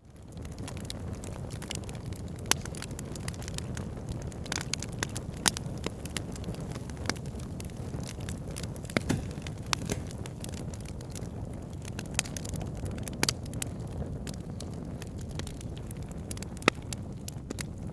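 Wood fire burning in a fireplace: a steady low rumble of flames with sharp crackles and pops every second or two. It fades up from silence at the start.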